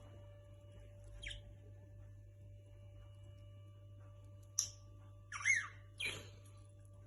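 Pet parrots giving short squawky chirps: one faint call just over a second in, then three louder calls close together past the middle, over a steady low electrical hum.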